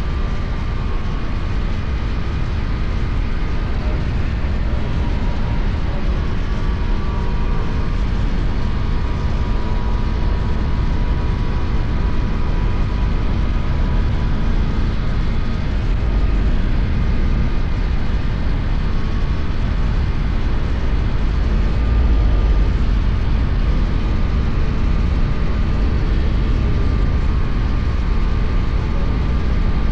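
KTM Duke 250's single-cylinder engine running at a steady cruising speed, mostly buried under heavy wind rush and road noise on the helmet-mounted microphone, with a faint engine hum that drifts only slightly in pitch.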